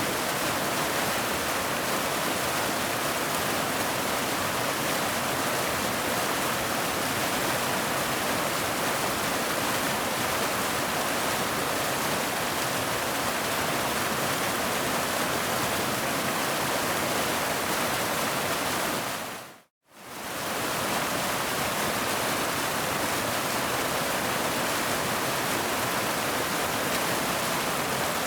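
Waterfall rushing in a steady, even hiss, which fades out to silence for a moment a little under twenty seconds in and then comes straight back.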